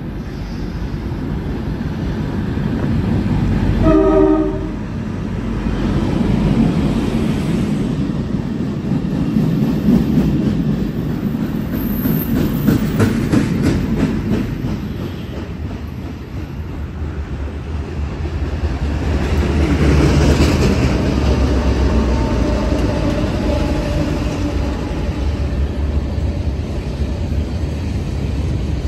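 EMD MP15AC diesel switcher locomotives pass close by, giving one short horn blast about four seconds in. Engine rumble and steel wheels clacking over rail joints follow, and more rail cars rumble past from about twenty seconds in.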